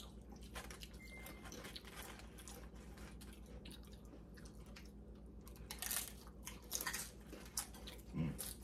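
Faint chewing and crunching of crunchy nachos, many small crackles with a few louder crunches around six and seven seconds in.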